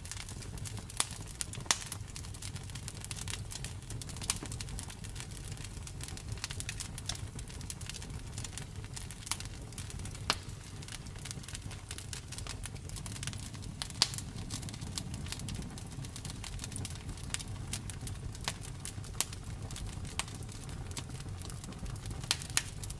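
Wood fire crackling: irregular sharp pops and snaps over a steady low rumble of burning, with a few louder pops scattered through, the loudest about fourteen seconds in.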